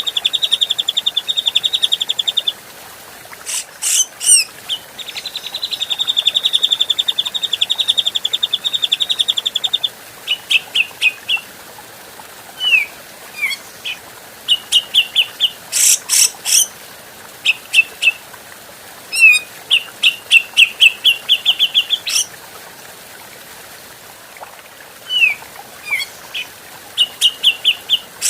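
Grey-cheeked bulbul (cucak jenggot) song: long, fast rattling trills, then strings of short chirps and quick down-slurred whistles, broken by a few sharp, very high chirp clusters.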